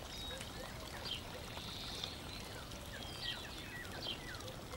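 Faint, repeated short falling chirps of small birds over a soft, steady water-like hiss.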